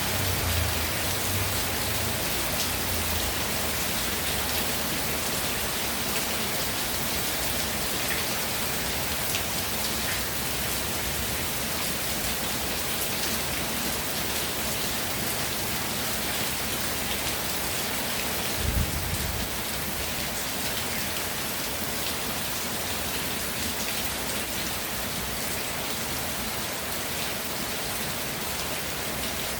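Steady rainfall, drops hitting the ground and surfaces in an even wash of noise, with one brief low thump a little past halfway.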